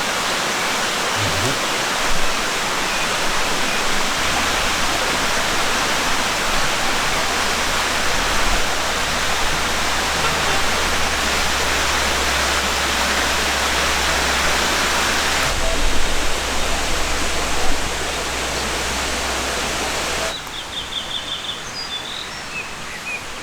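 Mountain stream water rushing steadily. About twenty seconds in it drops to a quieter, softer flow, with a few short bird chirps.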